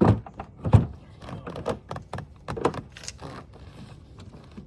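Knocks and clatter of a piece of gear being fitted onto a fishing kayak: two loud thumps at the start and under a second later, then a run of lighter clicks and rattles.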